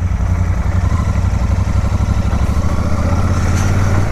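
Motorcycle engine running steadily at a low, even rumble while riding, with wind and road noise over it.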